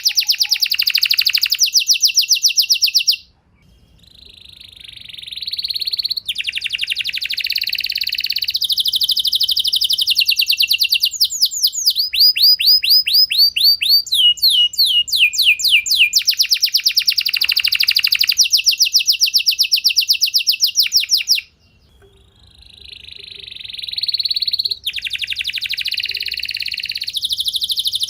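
Domestic canary singing long, rapid trilled phrases, switching between fast repeated notes at different pitches. The song breaks off briefly twice, about three seconds in and again about three-quarters of the way through, and each time starts again quietly and builds back up.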